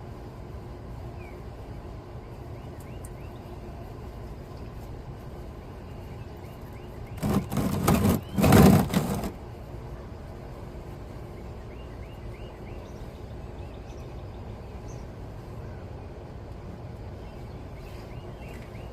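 Hot engine oil draining from a 2015 Yukon Denali's drain plug into a catch pan, a steady low stream. About seven seconds in, a loud noise in two parts lasts about two seconds.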